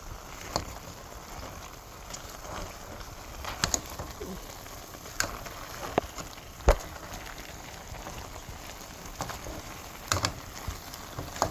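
Chicken and turkey parboiling in a pot with very little water, a steady crackling bubble, while a spoon stirring the meat knocks sharply against the pot several times.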